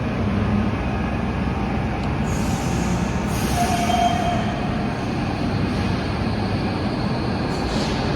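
Docklands Light Railway train running with a steady rumble, and a brief wheel squeal about four seconds in.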